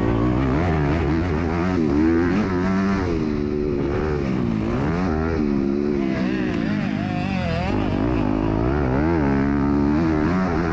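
MX2 motocross bike's engine under race throttle, its pitch rising and falling repeatedly as the rider opens and closes the throttle and shifts through the gears, over a low rumble.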